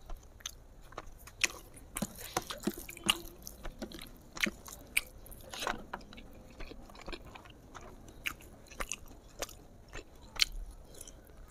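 Close-miked chewing and biting with many sharp, irregular wet mouth clicks and smacks as smoked pork and sticky rice are eaten.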